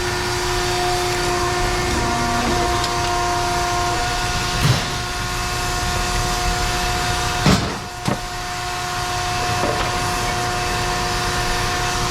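Heavy machinery running steadily with a constant whine, with a few sharp clunks about five and seven and a half seconds in.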